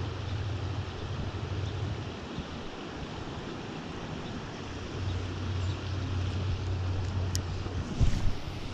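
Creek water running steadily, with a low rumble that comes and goes twice and a thump near the end.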